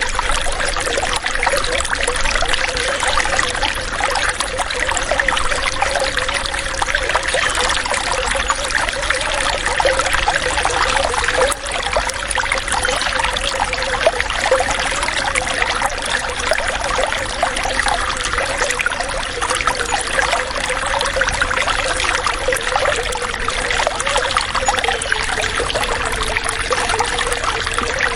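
Running water trickling and splashing steadily, with a wavering gurgling tone running through it.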